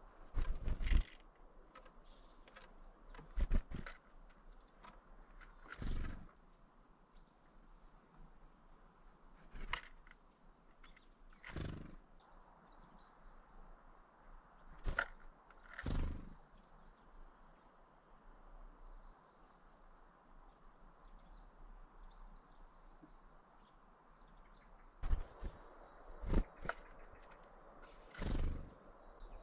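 Small birds chirping in thin, high calls, which settle about halfway through into a steady run of repeated chirps, about two a second. Several loud, sharp knocks or thumps break in throughout.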